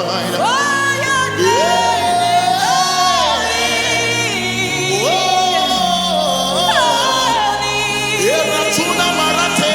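Gospel worship music: a voice sings wordless runs, sliding up into long held notes with vibrato, over sustained chords and a low bass.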